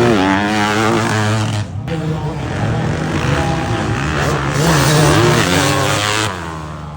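Racing dirt bike engines revving hard, their pitch climbing and dropping with throttle and gear changes. The sound falls away near the end.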